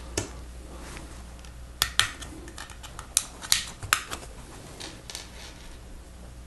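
Lego Technic friction pins being pushed into plastic panels and parts handled: a series of sharp plastic clicks, several close together between about two and four seconds in.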